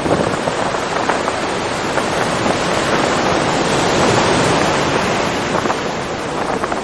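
Ocean surf rushing steadily as waves break and wash, swelling to its loudest about four seconds in.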